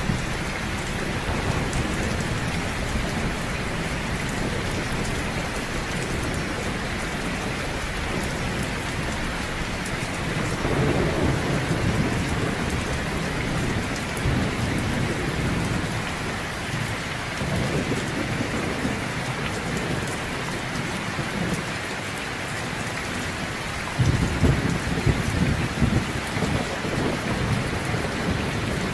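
Heavy rain falling steadily, with rolls of thunder: low rumbles about a third of the way in and again past the middle, and a louder rumble that breaks in suddenly near the end.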